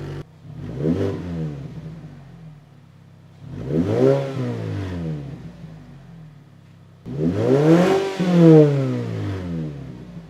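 Mazda 3 four-cylinder engine blipped three times from idle through a Borla axle-back exhaust with the original midpipe, each rev rising and falling in pitch. The third rev is the longest and loudest.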